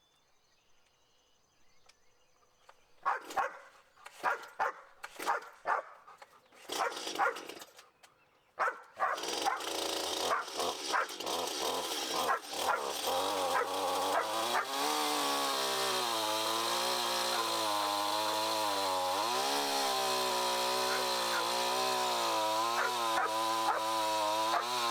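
A dog barks several times. Then a small petrol engine starts up about nine seconds in and keeps running, its speed wavering up and down.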